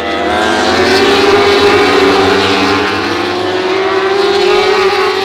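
Superbike racing motorcycles at high revs passing close by, several engines at once. The sound swells at the start, stays loud with a slight dip in the middle, and fades away near the end.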